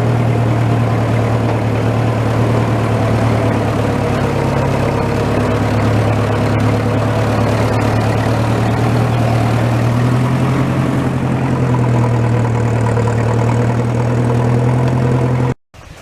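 Tractor engine running steadily with a deep, even hum. It cuts off abruptly near the end.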